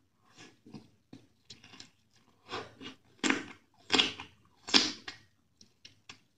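Close-miked eating sounds of rice with spicy chicken curry: a run of short, irregular wet chewing bursts, with three louder ones in the second half.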